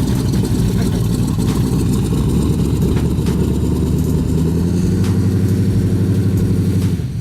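Engine idling loudly with a low, pulsing exhaust rumble, holding steady, then dropping off suddenly at the very end.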